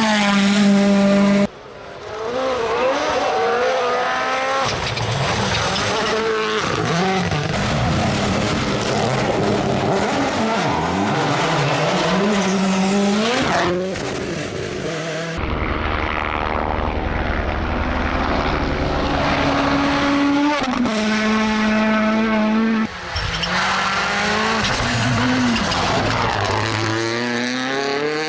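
Rally car engines revving high and dropping back through gear changes as the cars drive past at speed, with tyres skidding at times. Several short clips are joined with abrupt cuts.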